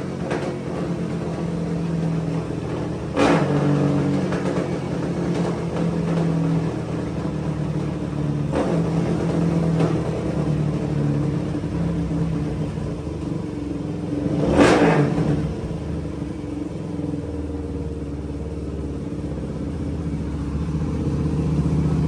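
Suzuki DRZ400 single-cylinder four-stroke engine running under load on a dyno through an MRD aftermarket exhaust. There is a sudden louder burst about 3 seconds in and another about 15 seconds in.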